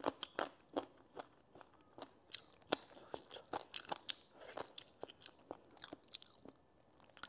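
Close-miked eating sounds: a person biting and chewing braised chicken and potato, with many short mouth clicks and smacks.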